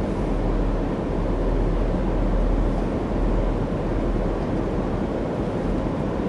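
Steady rumble of a moving passenger train heard from aboard, wheels rolling on the rails and the car body running without distinct clicks or horn.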